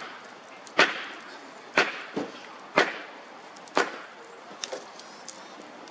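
Chopping firewood: five hard wooden strikes about a second apart, with a lighter knock between two of them and a couple of light taps near the end.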